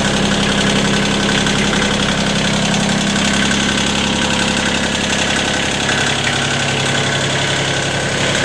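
Kioti CK20 tractor's three-cylinder diesel running at a fast idle just after a cold start, its note dipping slightly a few seconds in. With the clutch out, the cold engine is labouring to circulate the stiff, cold hydrostatic transmission oil.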